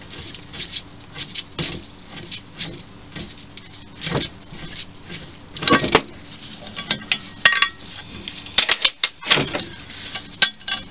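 Loose metal lathe parts and bolts clinking and knocking as they are handled and set down. The knocks are irregular, with several louder clanks in the second half.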